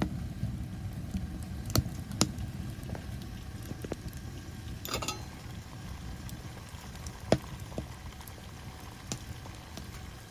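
Liquid bubbling steadily, as at a boil, with scattered sharp clicks and ticks.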